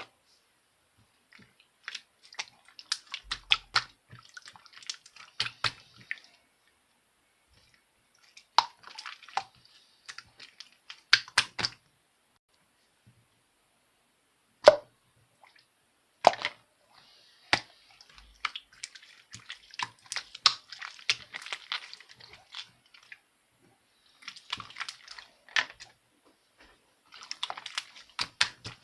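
Mixed slime being squished and stretched by hand, giving bursts of wet crackling clicks and pops separated by pauses, with two single sharp pops in the middle.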